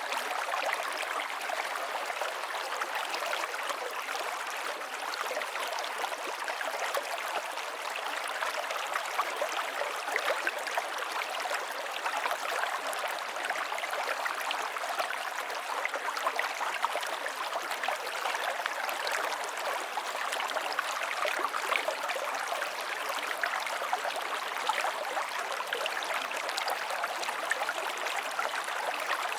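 River water flowing steadily over rocks, a continuous rushing with many small splashes and gurgles and no deep rumble.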